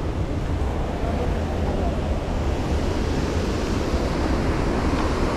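Steady rush of a waterfall, a constant roar of falling water that grows a little louder and brighter toward the end.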